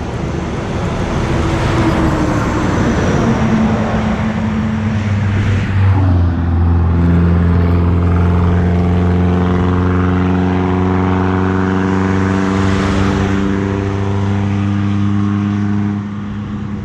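Motor vehicle engine running close by with road noise: a rushing sound for the first few seconds, then a steady engine drone from about five seconds in that rises slightly in pitch, then turns quieter near the end.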